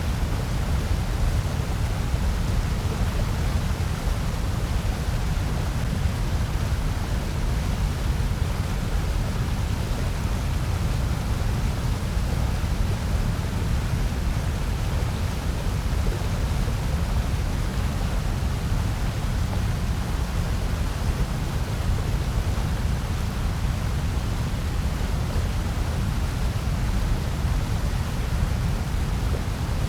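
Steady generated noise, a constant even rush with no events or changes, heaviest in the bass and thinning toward the treble.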